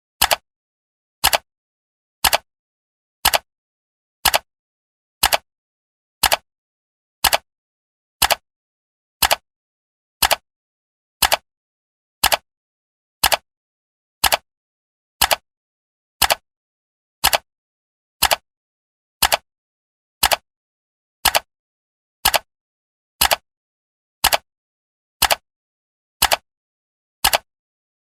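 Clock ticking, one sharp tick each second at an even pace, with complete silence between ticks.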